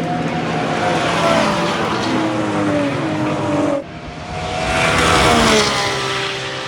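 GT race cars passing at speed with engines heavily muffled, engine pitch falling as each goes by. An abrupt cut a little under four seconds in switches to another car passing.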